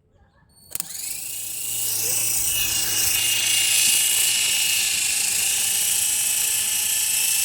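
Small remote-control toy helicopter's electric motors starting with a click about a second in, then spinning up: a high whine that rises in pitch and settles into a steady run with airy rotor hiss.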